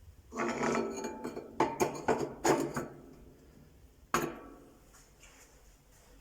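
Metallic clanks and clinks with short ringing, several in the first three seconds, then one sharp clank about four seconds in.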